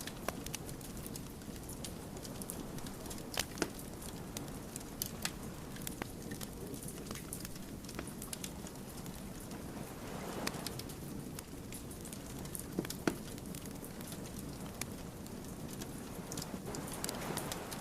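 Wood fire burning, with irregular sharp crackles and pops over a steady low rush of flame. Two louder swells of hiss come about two-thirds of the way in and near the end.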